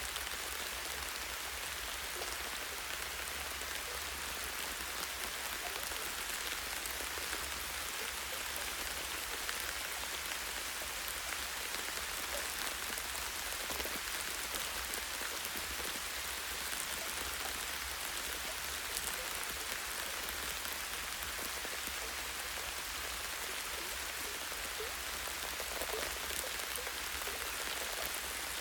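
Light rain falling steadily, with scattered individual drops pattering on leaves and a tree branch.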